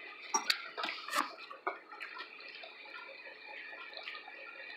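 Wet mouth clicks and smacks of someone eating sauced chicken wings, a few sharp ones in the first two seconds, then a faint steady background hiss.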